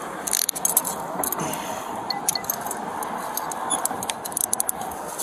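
Rustling and scattered light metallic clicks and jangles, like duty gear and keys shifting against a body-worn camera as the wearer moves.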